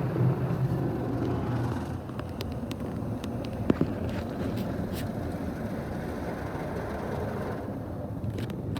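Automatic car wash machinery running just behind the car, heard from inside the closed car as a steady noisy wash. It drops in level about two seconds in as the machine moves away, with a few sharp knocks against the car.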